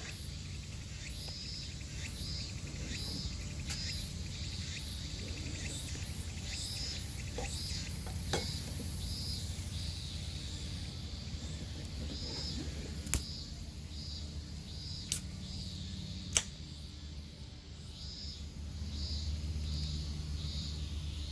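Insects chirping in a steady repeating pulse, about one or two high chirps a second, over a low outdoor rumble, with a few sharp pops from firewood burning in a campfire pit.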